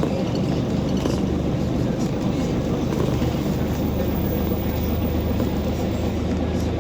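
Scania OmniCity city bus engine running with a steady low hum, along with the general noise of the bus.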